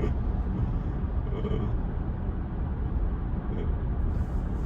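Steady low road and tyre rumble inside the cabin of a 2022 Tesla Model Y Performance on the move, with no engine note.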